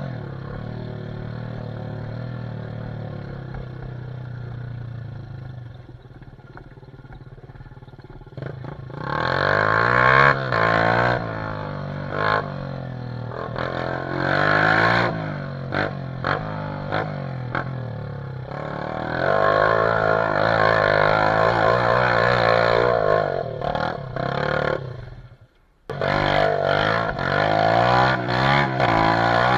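Dirt bike engine running steadily at first, then revving hard in repeated rising and falling surges as it is worked up a hill. The sound drops out briefly near the end, then the revving resumes.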